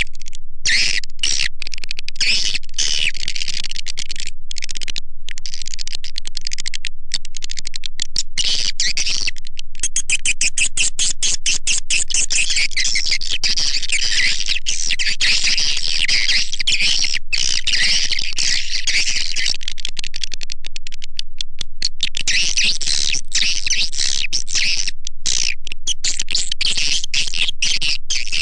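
Swiftlet lure call: a dense, continuous twittering of edible-nest swiftlet chirps, played as a call sound to draw swiftlets into a nesting house.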